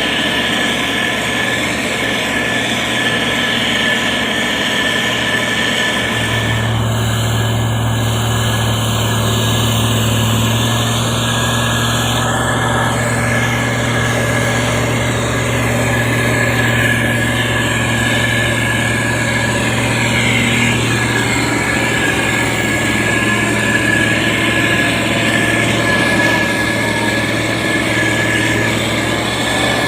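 Diesel engine of heavy road-construction machinery running steadily. Its sound deepens about six seconds in.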